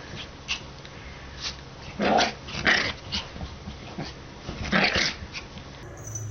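Dog growling, with louder outbursts about two seconds in, again just under three seconds in, and near five seconds in.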